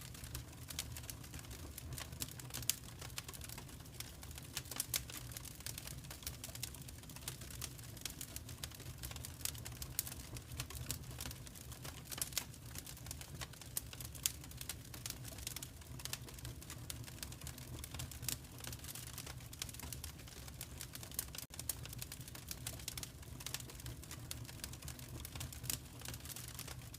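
Wood fire crackling in a fireplace: dense, irregular sharp snaps and pops over a steady low rumble.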